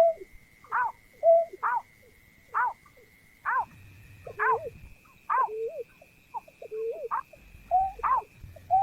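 Greater painted-snipe calling: a rapid series of short hooting notes, several each second, many falling in pitch. A steady thin high whine runs behind them and steps up slightly in pitch about three and a half seconds in.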